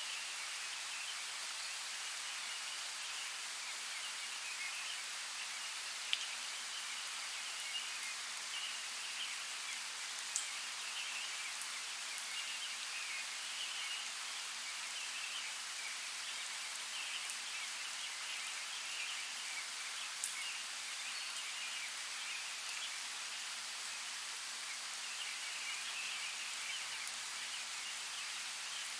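Steady rain falling in a forest, with the patter of drops and a few sharper drip hits now and then.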